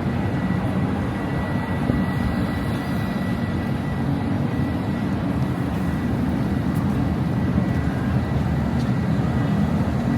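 City street traffic noise: a steady low rumble of vehicles.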